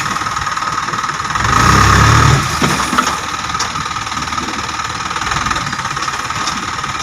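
Heavy-equipment diesel engine running steadily under a steady high whine, with a brief low surge in engine level about two seconds in.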